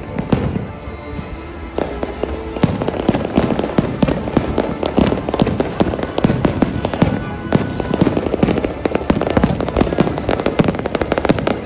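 Aerial fireworks display: dense, rapid, near-continuous bangs and cracks of shells bursting overhead.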